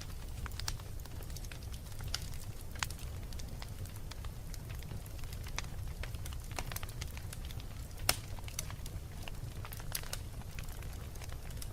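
Wood fire burning in a fireplace: a steady low rumble of flame under irregular crackles and pops, with one louder pop about eight seconds in.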